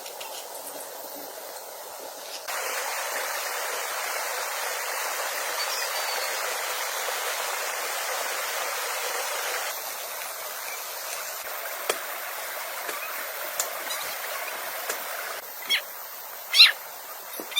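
Steady hiss of rushing water, changing level abruptly a few times. Near the end come three short, sharp animal calls.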